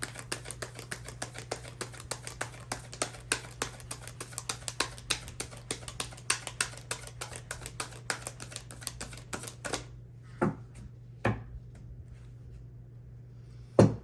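A deck of tarot cards being shuffled by hand: a rapid patter of card clicks that stops about ten seconds in. Three single knocks follow, the last and loudest near the end.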